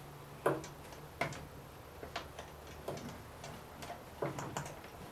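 Plastic parts of a Ryobi pressure washer being worked together by hand: a string of irregular clicks and knocks as a tight fitting is forced on, a few coming in quick succession near the end.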